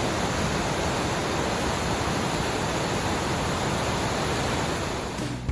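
Water discharged from Maruyama Dam's spillway after heavy rain, a loud steady rushing noise that dips slightly near the end.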